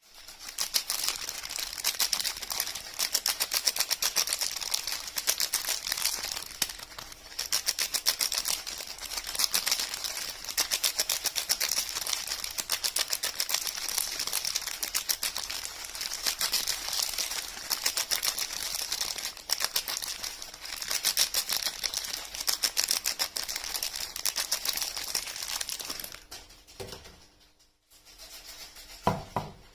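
Rapid, dense crackling and clicking of soap and its packaging being handled and unwrapped, with two soft knocks near the end as it quietens.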